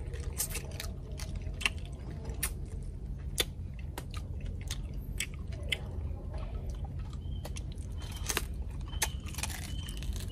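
Close-up chewing and biting of deep-fried crocodile head meat and skin: irregular crisp crunches and crackles, over a steady low hum.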